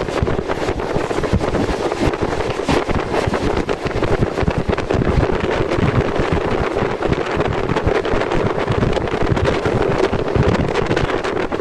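Passenger train running at speed, over 100 km/h: a steady, loud rush of wheel and wind noise, with wind buffeting the microphone.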